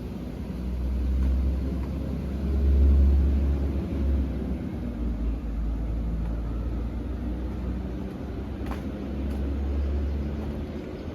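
Class 197 diesel multiple unit pulling away from the platform, its diesel engines running under a low rumble that swells and eases.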